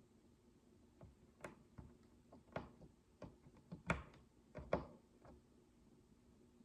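Tiny plastic micro bricks clicking as they are handled: a scattered run of light, sharp clicks, the two loudest about four and five seconds in.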